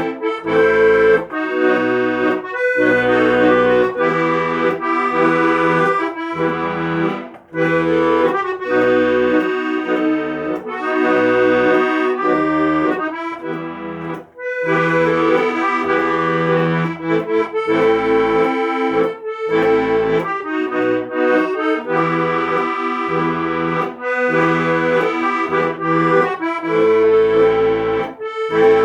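Accordion music: a melody played over held chords and a moving bass line, with short breaks in the phrasing twice.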